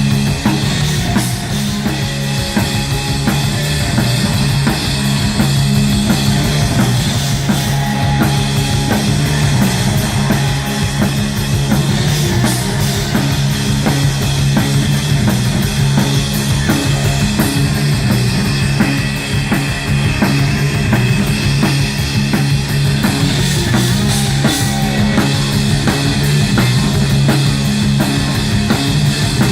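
Live rock band playing: a drum kit struck densely and fast, with guitar over sustained low bass notes, loud and unbroken.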